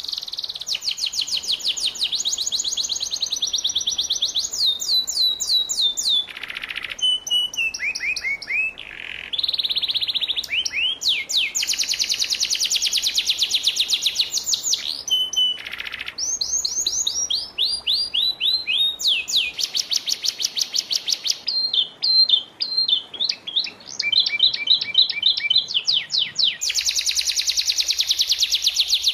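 A moulting canary singing a long, continuous high song. It is built of fast trills and rattling runs of repeated notes, with falling whistled slurs between them and only brief breaks.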